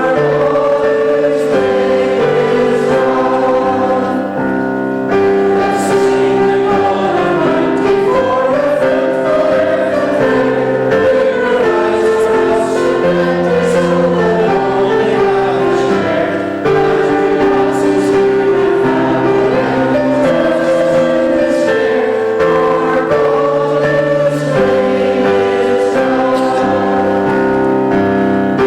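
Congregation singing a hymn together with instrumental accompaniment: long held notes over a bass line that changes every second or two.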